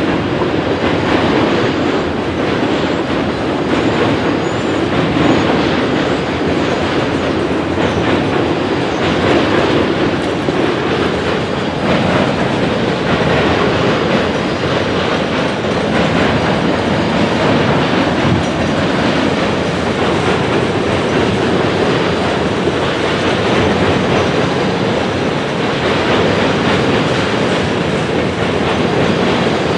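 Freight cars of a long mixed train (autoracks, a covered grain hopper, a centerbeam flatcar) rolling past at a crossing: a steady, loud rumble of steel wheels on rail with a repeating clickety-clack of wheels over the rail joints.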